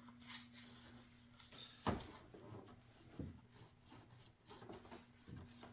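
Faint handling sounds of plastic motor-oil containers: one sharp knock about two seconds in and a couple of smaller knocks later, over a steady low hum.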